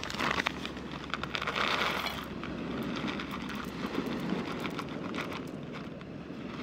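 Wood fire crackling in a Pyromaster 2 wood-gas stove, irregular small pops and clicks, with a soft hissing noise over the first two seconds or so.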